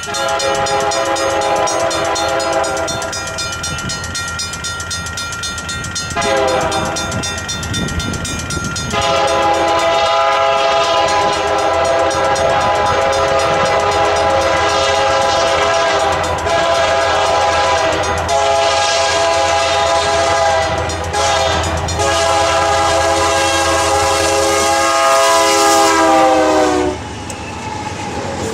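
EMD SD75M diesel locomotive leading a freight train, sounding its chime air horn in several blasts, the last one long and dropping in pitch near the end as the locomotive passes. A steady low engine rumble runs underneath.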